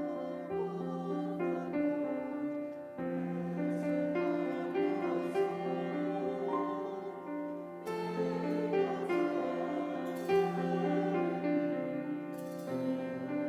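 Slow instrumental music on a keyboard: a melody over low notes held for several seconds at a time.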